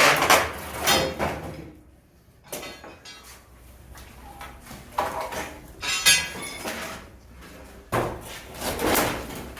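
Irregular hammer knocks and metallic clinks with bursts of scraping, in clusters a few seconds apart, typical of chipping out old mortar and cement around a window opening.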